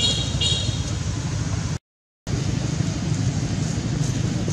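Steady low rumble of outdoor background noise, with two short high-pitched squeaks right at the start. The sound cuts out completely for about half a second around two seconds in.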